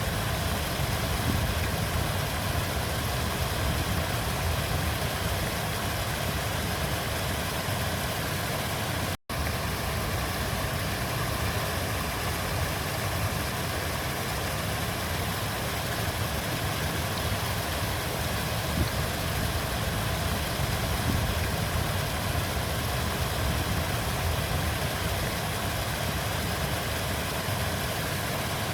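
River water flowing in a steady rushing wash, with a brief cut to silence about nine seconds in.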